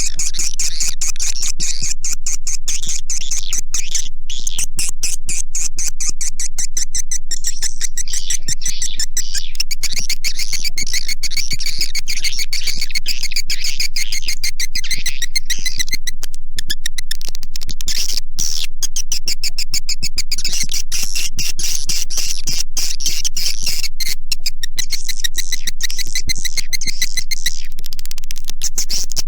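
Recorded swiftlet calls: a loud, unbroken chatter of high buzzy chirps and rapid clicks, briefly thinning twice in the middle. It is a swiftlet call recording of the kind played to lure swiftlets into nesting houses.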